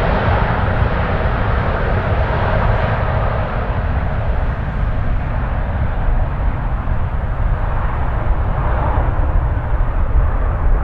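Jet airliner engines roaring past, a deep rumble with hiss over it; a faint whine fades early on and the sound grows duller as the aircraft moves away.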